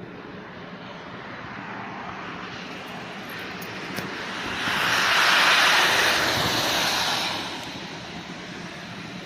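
Steady road noise of a car driving, with a louder rushing hiss that swells and fades over about three seconds in the middle as another vehicle passes.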